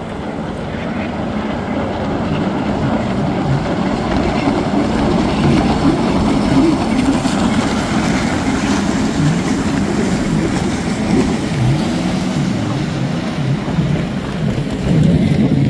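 A pack of racing jet skis running hard together, many engine notes overlapping and wavering up and down in pitch as they rev, getting louder over the first few seconds.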